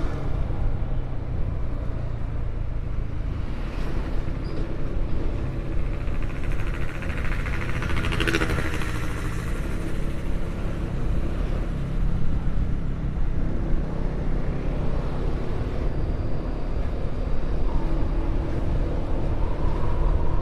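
Steady vehicle rumble with road and wind noise. About eight seconds in, a passing vehicle swells louder and fades away.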